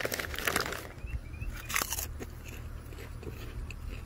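A person biting into a crunchy baked "grilled chocolate" snack and chewing it: two loud crunchy bites in the first two seconds, then softer chewing.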